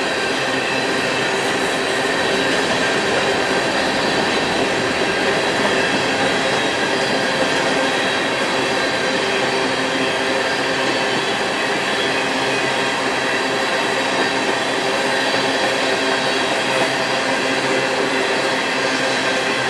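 Freight train rolling steadily past, steel wheels running on the rails with steady high-pitched squealing tones through the rumble.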